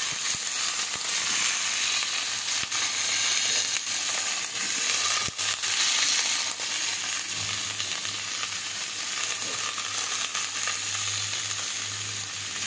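Cauliflower florets and potato pieces frying in hot oil in a kadai: a steady sizzle with scattered small pops.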